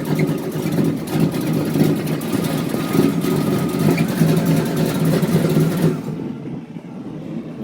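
A vehicle engine running loudly close by, then dropping away suddenly about six seconds in.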